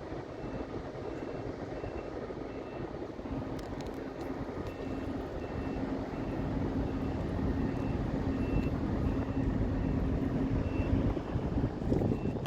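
Steady hum of a boat engine running, with a constant low drone that grows a little louder toward the end. A faint high note repeats about twice a second under it.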